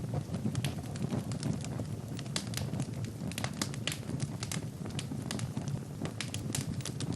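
Wood logs burning in a fireplace: a steady low rush of flame with frequent, irregular sharp crackles and pops.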